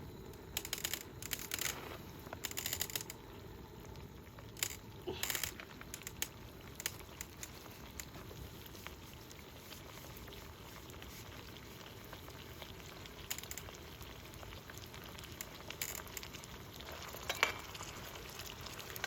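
Food sizzling steadily in a hot pan, with a few short clatters of a utensil against the pan near the start, about five seconds in, and near the end.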